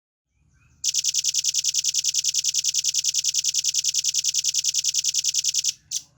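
Velvet-fronted nuthatch (red-billed nuthatch) singing one long, rapid, evenly spaced trill of high chips, about ten a second for nearly five seconds, then a single short note.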